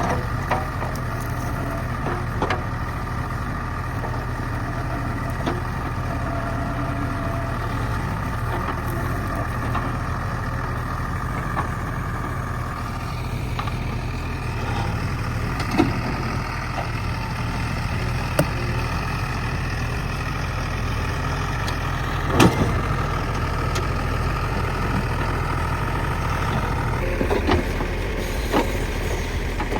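JCB backhoe loader's diesel engine running steadily, with several sharp knocks and clanks, the loudest about two-thirds of the way through.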